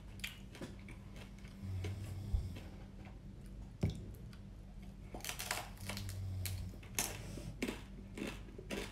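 Close-up crunching and chewing of battered, deep-fried small blue swimming crab (rajungan): short crisp cracks and clicks, coming in clusters in the second half.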